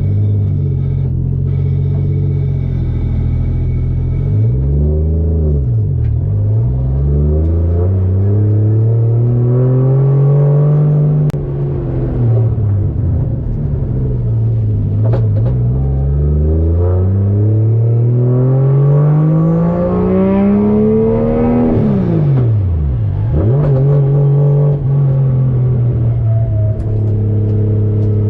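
1JZ-GTE VVTi turbocharged straight-six engine under way, pulling up through the revs in several long rising sweeps with drops between them. It falls sharply about three-quarters of the way through, then settles to a steady lower note.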